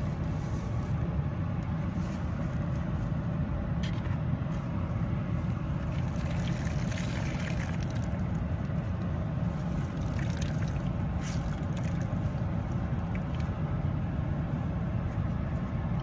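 A sponge and towel being squeezed out and rinsed, with light splashing and dripping water, over a steady low rumble.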